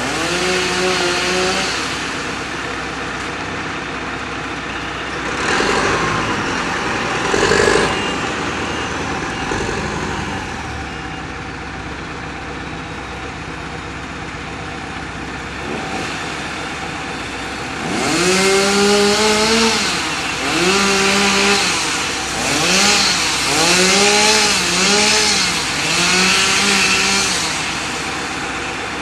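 An engine runs steadily, then near the end revs up about six times in a row, each rev rising, holding briefly and dropping back. Partway through, a louder rush of noise swells and fades.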